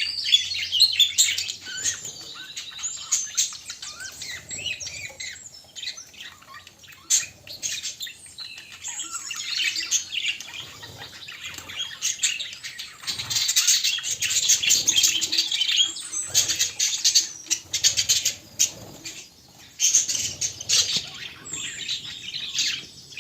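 Budgerigars chattering and warbling: a dense stream of quick chirps and clicks that swells louder around the middle and again near the end.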